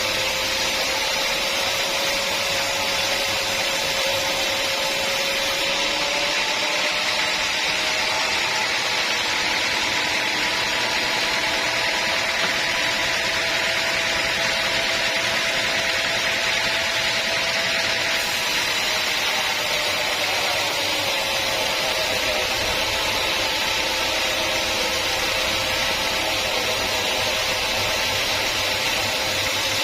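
A sawmill saw running steadily through a teak log, with a constant hiss and a whine that shifts up in pitch for a while and then settles back down.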